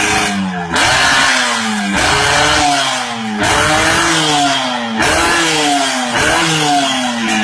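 Yamaha RX-King's single-cylinder two-stroke engine revved through an aftermarket underslung exhaust in repeated throttle blips, about five or six of them, each rev jumping up and then falling away.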